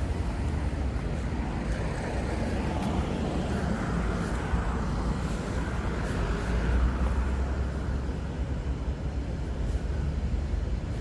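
Evening street ambience of road traffic: a steady low rumble, swelling for a few seconds in the middle as the traffic noise grows louder, with a few faint clicks.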